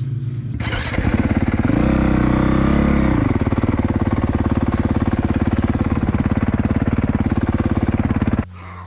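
Single-cylinder four-stroke dirt bike engine running close by. It is blipped up once and back down, then idles steadily with a pulsing beat before cutting away abruptly.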